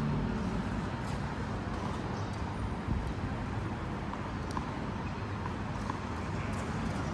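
Scattered light taps and knocks, a few seconds apart, over steady background noise, typical of play in a racket-sport match: footsteps and racket or ball hits on a court.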